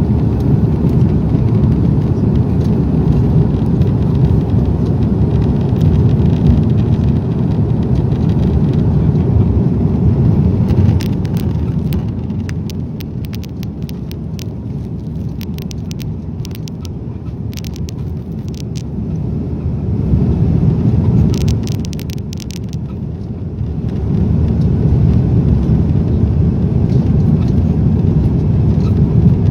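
Cabin noise inside an Airbus A340: a loud, steady low rumble of the engines and airflow. It eases off for several seconds in the middle, swells briefly and then comes back to full strength, with a few faint clicks while it is quieter.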